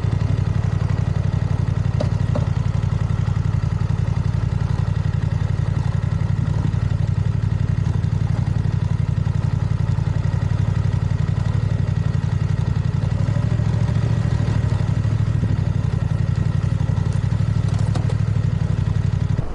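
BMW motorcycle engine running at a steady cruise, an even, unchanging pulsing drone with no revving or gear changes, heard from the rider's helmet camera.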